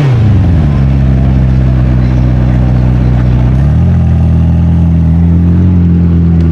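A car engine drops back from a rev to a steady idle, its pitch falling in the first half second. The idle then steps up slightly a little past halfway and holds.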